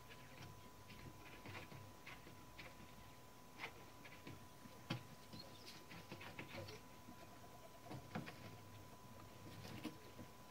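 Faint, irregular light clicks and taps of small metal typewriter parts being handled and worked on, a few slightly sharper taps standing out, over a faint steady high tone.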